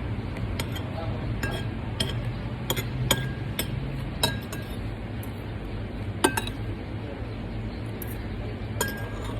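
Cutlery clinking against plates and glasses during a meal: scattered light taps, several with a short ring, over a steady low hum.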